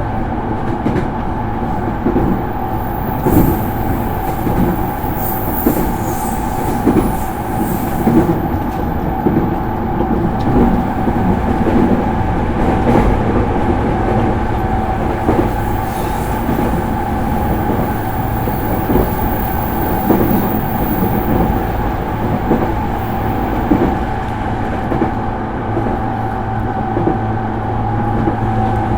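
JR East E231-series electric train running at speed, heard from inside a motor car: a steady rumble and whine under the floor, with irregular clicks of the wheels over rail joints.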